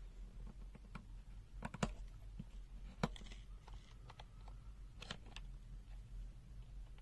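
Scattered light clicks and taps of small objects being handled: a quick cluster about two seconds in, a sharper tap near three seconds and a pair just after five seconds.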